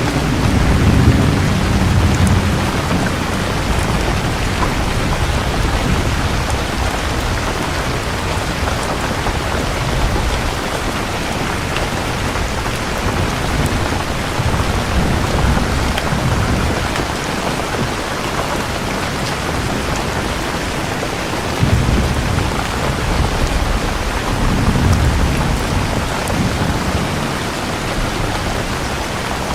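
Steady rain falling, with low rolls of thunder rumbling near the start and twice more late on.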